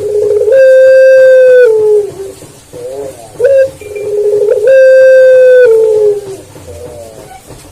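Puter pelung (Barbary dove) cooing: two calls, each opening with a few short rising notes and ending in one long held coo that dips in pitch as it fades.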